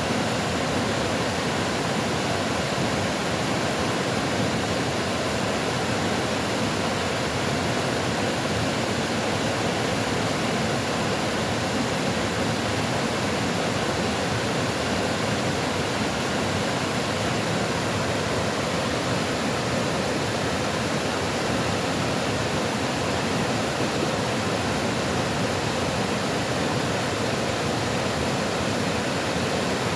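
Rushing water, a steady unbroken wash of sound with no splashes or changes.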